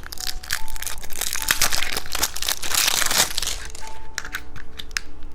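Plastic candy wrapper crinkling and crackling as it is handled, densest and loudest about two to three seconds in. Soft background music plays underneath.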